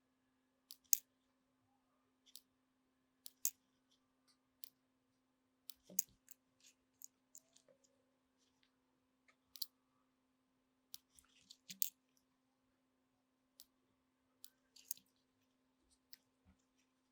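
Small, sharp clicks and light taps, irregular and scattered, about twenty in all, with a faint steady hum underneath.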